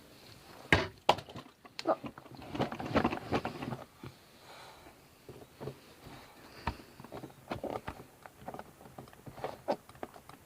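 Scattered knocks and clatters of hard objects: a few sharp single knocks, with a busier run of clattering about two to four seconds in.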